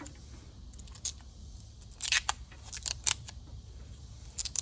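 Hands working on a security camera's solar panel, removing a part: a handful of short, sharp clicks and scrapes, spread unevenly, the loudest about two seconds in and again near the end.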